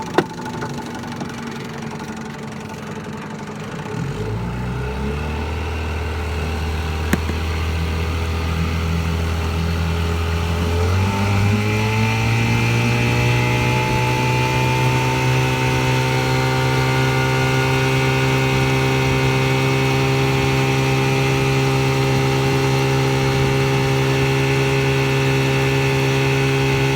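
1964 Johnson 5.5 hp two-cylinder two-stroke outboard running at low speed, freshly resealed and with a new carb kit on its test run. About ten seconds in, its note rises as the throttle is opened, and it then holds steady at the higher speed.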